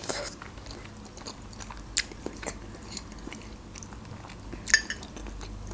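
Close-up chewing of a mouthful of stuffed cabbage roll, with soft wet mouth sounds and a few faint clicks, the sharpest about two seconds in and a short cluster near the end.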